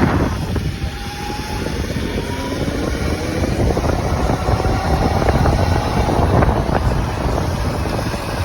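Wind rushing over the microphone of a rider on a moving electric dirt bike, over a steady low rumble, with a faint whine rising in pitch a few times.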